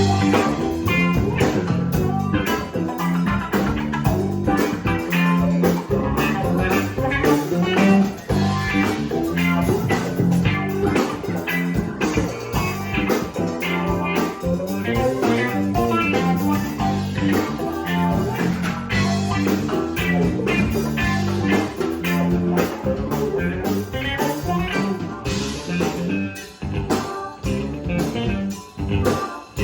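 Instrumental blues-rock: guitar playing over bass and drums, with no singing.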